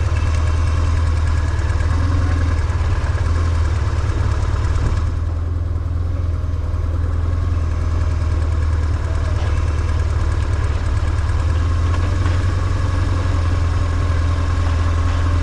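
BMW R1150GS motorcycle's air/oil-cooled boxer twin engine running steadily at low revs, with a deep, even note and no revving.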